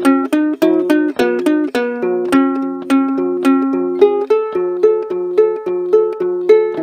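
Ukulele playing an instrumental passage: chords strummed or picked in a steady rhythm of about three strokes a second, moving to a new chord about two seconds in and again about four seconds in.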